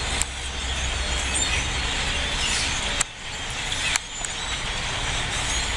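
Dense, steady chatter of a very large flock of birds, many faint overlapping chirps, over a low steady rumble. Two sharp clicks, about three and four seconds in.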